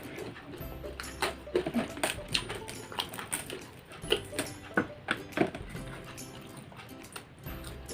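Close-up eating sounds from a fried catfish head being picked apart and chewed: irregular wet smacks, clicks and small crunches, several a second.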